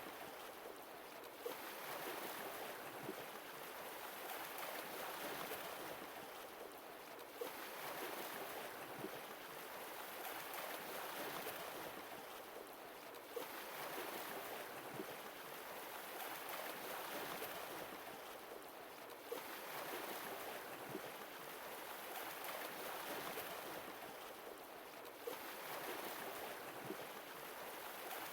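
Sea waves washing onto the shore, each one swelling and then drawing back, about every six seconds, with a small click as each wave comes in.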